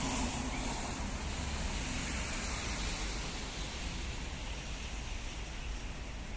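Steady hiss of falling rain with a low rumble underneath.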